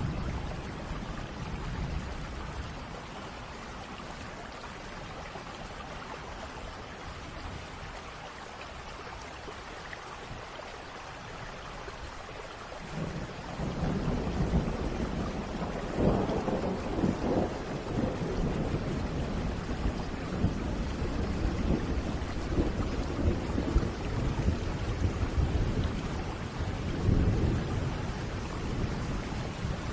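Steady rain with thunder. About halfway through, a long roll of thunder builds and rumbles on in several swells until near the end.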